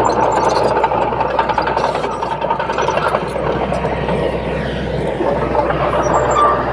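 Heavy diesel earth-moving machinery running steadily, with a thin whine heard over the engine.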